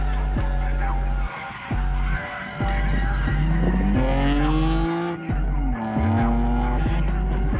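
A drift car's engine revving on the throttle, its pitch climbing a few seconds in and dropping again, with tyres squealing and skidding. Music plays underneath.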